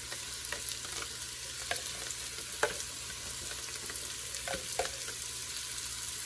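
Chopped onion and jalapeño sizzling steadily in hot oil and meat drippings in an enamelled Dutch oven, with a few sharp ticks scattered through it.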